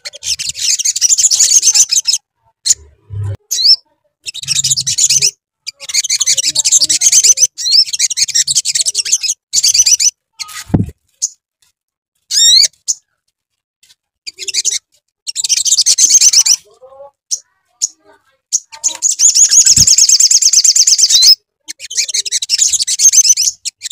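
Sunbird (sogon) singing a high, rapid twittering song in repeated bursts of one to two seconds with short pauses between them. There are a couple of brief low thumps.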